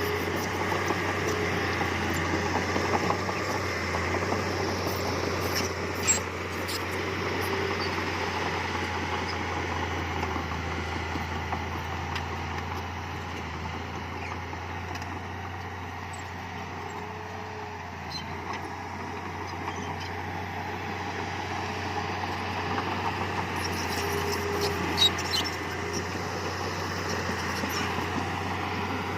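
Heavy earthmoving machinery running steadily, its engine a continuous drone. A sharp knock comes about six seconds in and a few more near the end.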